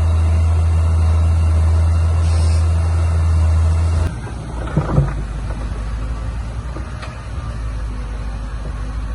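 Heavy earthmoving machine's diesel engine running with a steady low hum. About four seconds in the sound changes abruptly to a rougher, quieter engine noise, with a short knock about a second later.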